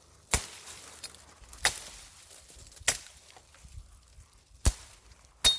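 Ontario Bushcraft machete chopping limbs off a dry fallen spruce: five sharp chops about a second or so apart, the last two closer together.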